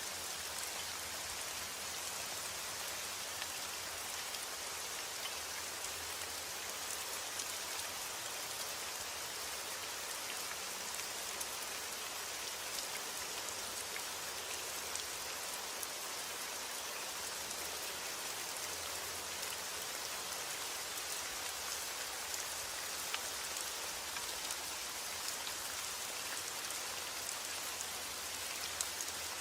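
Heavy rain falling steadily on a roof, a constant hiss with fine scattered drop ticks.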